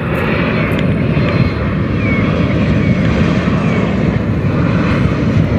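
A Boeing 737 MAX 8's twin CFM LEAP-1B turbofan engines on final approach, just before touchdown: a steady, loud jet sound, weighted low, as the airliner passes close.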